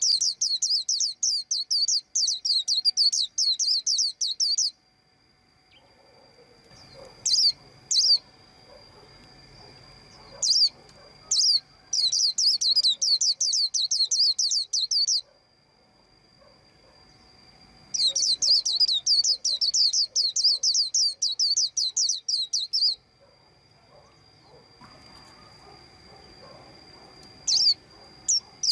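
White-eye chirping in quick, high runs of several seconds each: three long bouts, with single sharp calls in the gaps between them.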